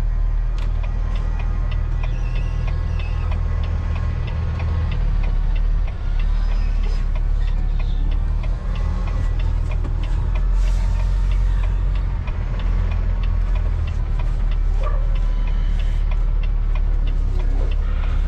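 Semi truck's diesel engine running at idle: a steady low rumble, with a faint rapid ticking through the middle stretch.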